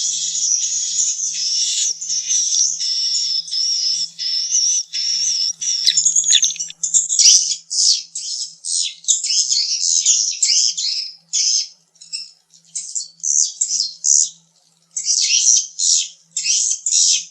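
Edible-nest swiftlets twittering in rapid, high chirps. A dense, continuous chatter gives way about halfway through to short separate bursts of chirps with brief gaps between them.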